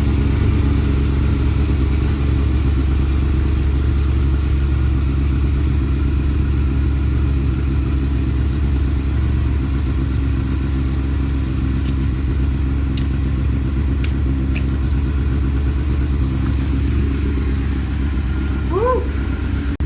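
Motorcycle engine idling steadily while it warms up after a cold, jump-started start.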